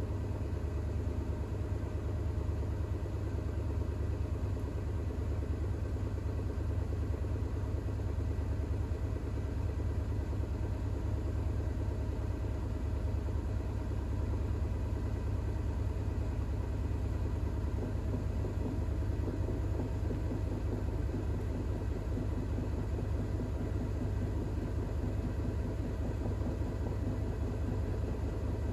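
Bosch WAX32GH1 front-loading washing machine drum spinning in an unbalanced intermediate spin, a steady low rumble with an even motor hum.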